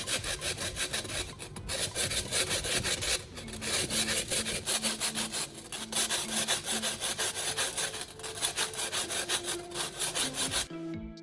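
Rapid back-and-forth strokes of sanding along the cut edge of a stainless steel kettle body, a rhythmic scratchy rubbing that deburrs the sharp metal edge. The sanding stops abruptly near the end, and background music takes over.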